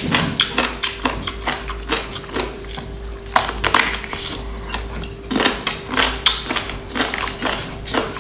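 Close-miked eating sounds: chewing and lip-smacking, a quick run of wet clicks and smacks as a person bites and eats a piece of seafood. A faint steady hum at one pitch sits under it.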